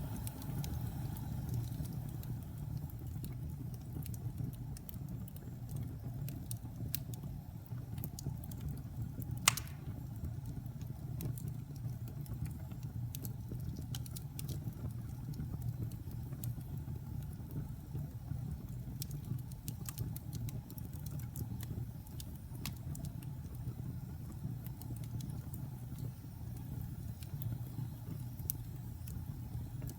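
Wood fire crackling in a fireplace: a steady low rumble of burning with scattered sharp crackles, and one louder pop about a third of the way in.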